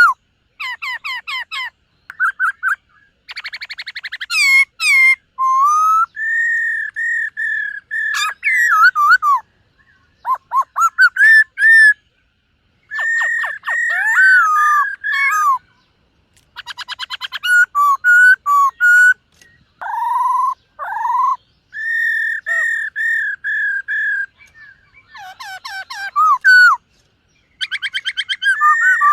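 Black-throated laughingthrush singing: varied phrases of clear whistled notes mixed with rapid rattling trills, broken by short pauses between phrases.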